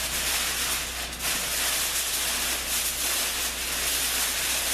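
Continuous crinkling and rustling of tin foil being handled.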